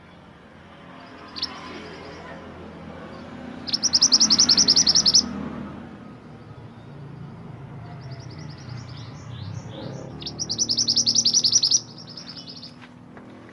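Mantenan gunung songbird singing: rapid runs of high chirping notes, loudest in two bursts about four and eleven seconds in, with softer chirps between.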